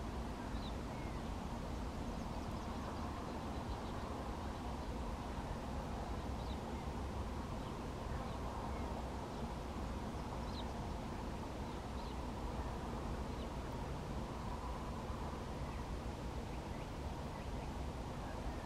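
Steady outdoor background noise with faint, short bird calls scattered throughout.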